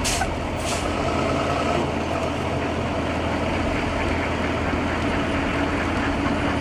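A motor vehicle's engine running steadily with a low drone and a wash of noise, no change in pace.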